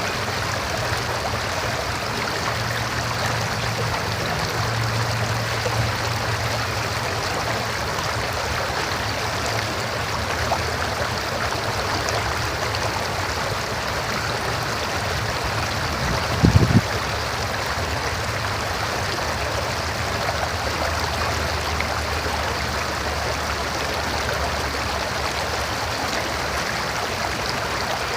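River water flowing steadily. A brief low thump sounds a little past halfway.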